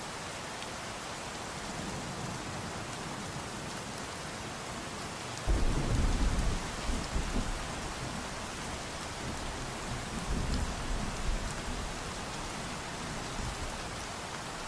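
Steady rain falling, with a rumble of thunder breaking in suddenly about five seconds in and rolling on in waves for several seconds.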